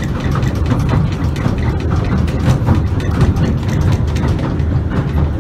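Pier train running along the pier, heard from inside the carriage: a steady low rumble of the wheels on the track, with constant rattling and clicking.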